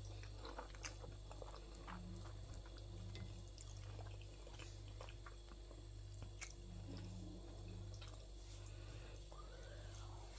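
A person eating: faint chewing with scattered small clicks, over a low background hum.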